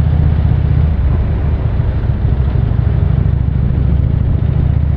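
Harley-Davidson touring motorcycle's V-twin engine running steadily at low road speed, heard from the saddle, with road noise above it.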